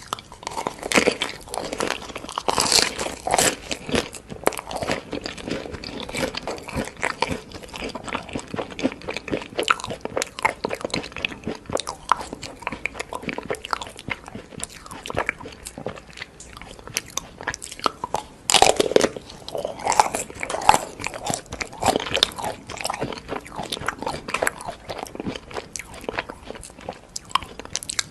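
Close-miked eating: crunchy bites and chewing, a dense run of sharp crunches that comes in two busier spells, near the start and again about two-thirds of the way through.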